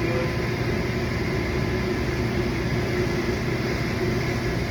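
Steady mechanical hum with a hiss, unchanging throughout, with a few constant tones in it.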